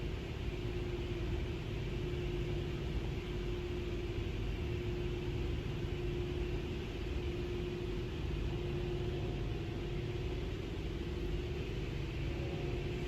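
Steady low rumble with a constant hum, heard from inside a car sitting in a touchless automatic car wash bay, with no spray hitting the car.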